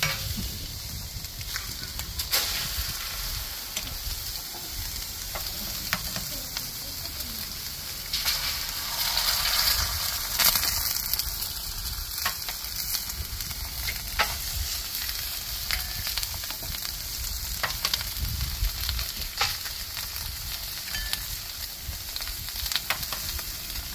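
Bacon, sausages and eggs frying on a hot carbon steel griddle: a steady sizzling hiss with scattered small pops, louder for a couple of seconds about eight seconds in.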